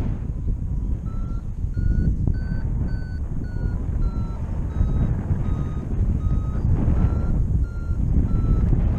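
Paraglider variometer beeping about twice a second, its pitch rising, then falling and rising again, over a steady rush of wind on the microphone. This is the vario's climb tone, signalling lift in a thermal.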